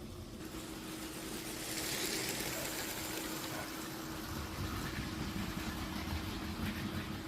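Battery-powered Lego train running on plastic track: a steady electric motor whir with the rattle of wheels over the track joints, growing louder about two seconds in as it passes close.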